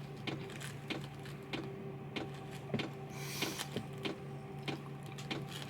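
Scattered small clicks and light rustling of things being handled inside a car, with a brief hiss about three seconds in, over a steady low hum.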